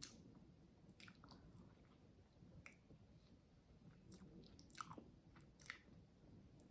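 Faint chewing of soft cake, a small carrot cake cupcake, with scattered small wet mouth clicks.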